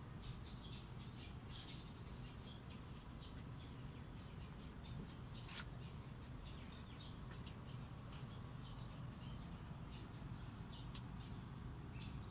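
Small birds chirping, many short high calls scattered throughout, faint over a low steady rumble.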